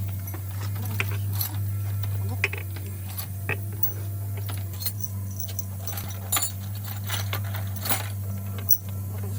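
Small metal parts and tools clinking and tapping at irregular moments, over a steady low hum.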